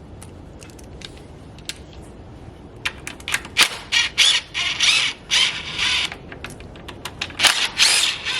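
Cordless impact driver with an 8 mm socket run in several short bursts, backing out the bolts of an engine intake cover. The bursts start about three seconds in and come again near the end, with a few light clicks before them.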